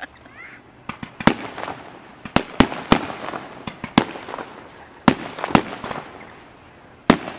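Aerial fireworks going off: about eight sharp bangs at irregular intervals, each followed by a trailing echo.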